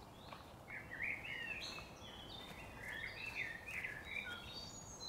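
Faint songbird singing: a run of quick, short warbling phrases over a quiet outdoor background hiss.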